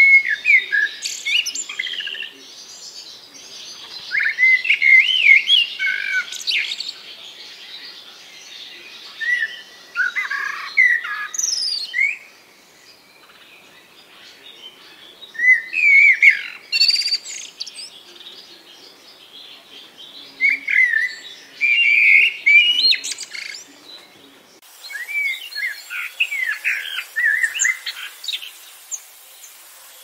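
A bird singing in repeated bursts of quick, varied chirps and gliding whistles, each burst a few seconds long with short pauses between. The background hiss changes abruptly near the end.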